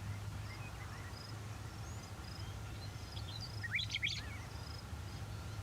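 Small birds chirping, with a quick run of rising chirps about four seconds in, over a steady low hum.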